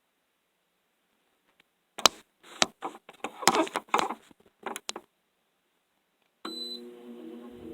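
A series of sharp clicks and knocks, then a short beep as an Arctic King window air conditioner switches on, with a low hum starting at the beep. The fan's rushing air begins to build at the very end.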